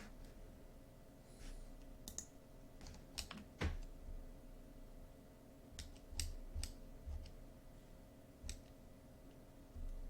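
Scattered clicks of a computer mouse and keyboard, about a dozen spread unevenly, over a faint steady electrical hum.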